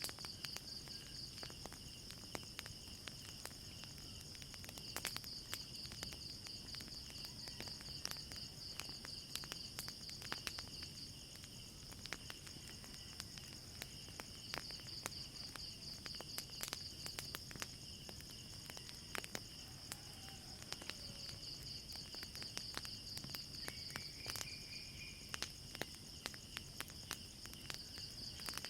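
Crickets chirping steadily in a night chorus, with frequent small pops and crackles from a wood fire.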